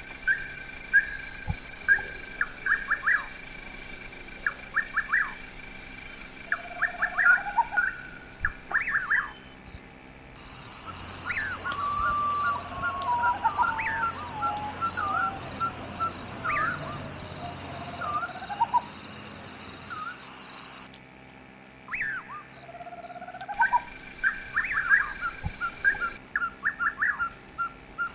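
Birds calling outdoors: quick runs of short repeated notes and brief rising chirps, over a steady high-pitched drone. The background changes abruptly several times, as at cuts between clips.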